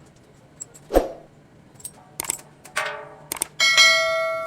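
Metal striking metal during LPG pigtail hose replacement on a gas manifold: a few light clinks and a knock, then near the end a loud clang that rings on with a bell-like tone and slowly fades.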